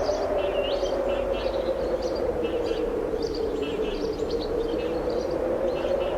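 Strong wind blowing with a steady low rush, while small birds chirp and twitter in quick short calls throughout.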